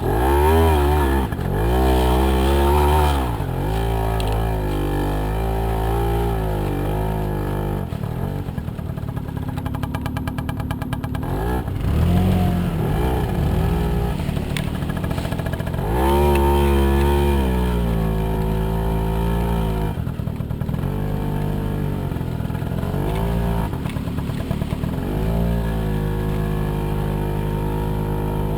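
Small moped scooter engine running under a rider, revving up and down as it is ridden, its pitch rising and falling over and over. It is loudest in surges shortly after the start and about halfway through.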